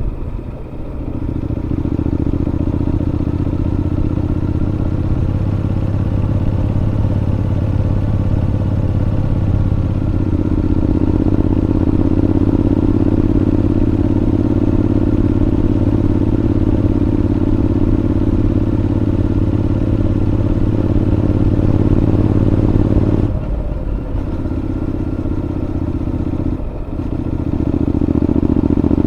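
Honda NC750X parallel-twin engine with a Moriwaki aftermarket muffler, running steadily under way. The exhaust note dips briefly just after the start and twice more near the end.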